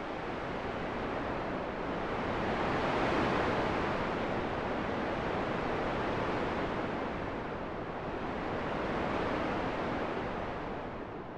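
Steady rushing wind that swells and eases in slow gusts, building to a peak about three seconds in and again about nine seconds in.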